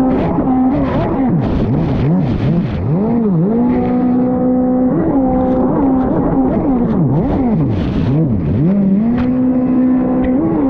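Fast Powersports F16 dirt bike engine being ridden hard on a motocross track: revs held steady, then chopped off and snapped back up several times over bumps and corners. Short knocks and clatter from the bike sound over the engine throughout.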